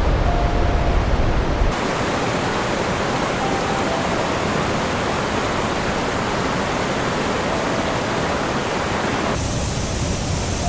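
Rushing floodwater: a steady, full noise of fast-moving water that changes character abruptly about two seconds in and again near the end.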